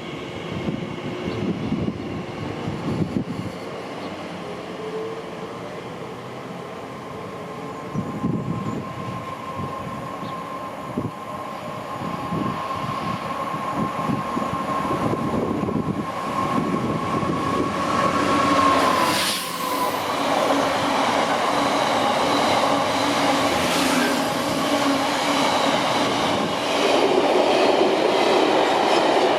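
A train running through a railway station. A steady high tone fades out about two-thirds of the way in, and the rumble and clatter of wheels on the rails then grows louder.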